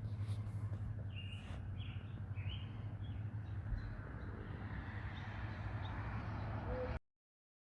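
Outdoor ambience: a few short bird chirps over a steady low rumble, the sound cutting off abruptly about seven seconds in.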